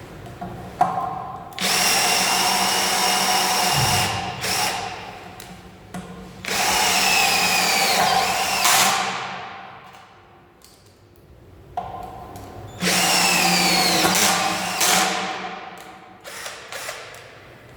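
Cordless brushless drill/driver driving screws in three runs of a few seconds each. The motor's whine sags under load and winds down in pitch at the end of each run, with clicks of handling in between.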